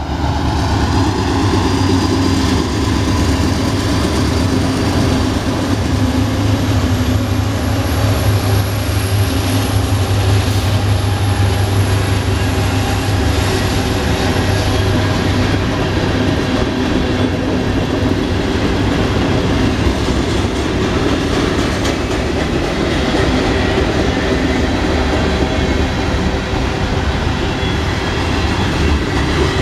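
Norfolk Southern diesel-hauled mixed freight train passing: a loud low rumble from the lead locomotives in the first half, easing about halfway through into the steady rolling noise of tank cars and covered hoppers on the rails.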